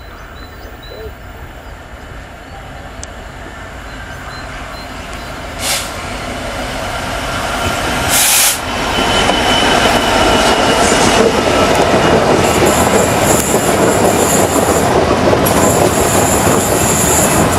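DB Cargo Class 66 diesel locomotive approaching and passing, growing steadily louder to a brief loud rush about eight seconds in as the locomotive goes by. A long rake of metal hopper wagons follows, rumbling over the rails, with high-pitched wheel squeal from about twelve seconds in.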